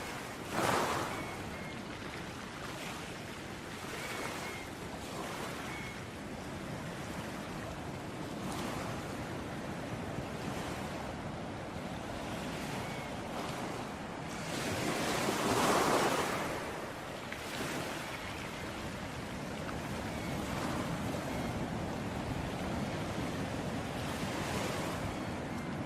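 Ocean waves washing onto a beach: a steady surf wash with a short surge just after the start and a bigger wave breaking about fifteen seconds in.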